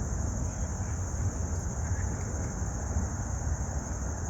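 Steady, unbroken high-pitched trilling of crickets over a continuous low rumble.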